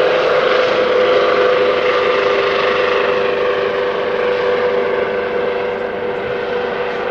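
Airbus Helicopters H145 departing after takeoff: steady rotor and turbine noise with a strong whine that slides slightly lower, fading gradually as the helicopter moves off.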